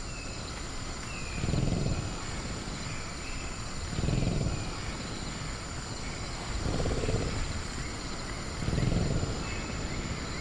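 Sound-effect velociraptor growling low, four growls about two and a half seconds apart, over a steady cricket drone and faint short bird chirps.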